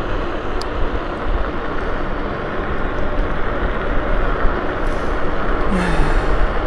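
Wind rushing over the microphone with a low rumble of tyres on the road while riding a KuKirin G2 electric scooter, with a brief hiss near the end.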